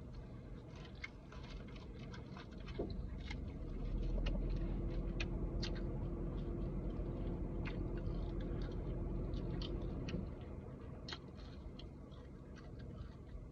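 Close-up eating sounds: a person chewing food with wet mouth clicks and smacks. A low rumble with a faint steady hum comes up about four seconds in and drops away about ten seconds in.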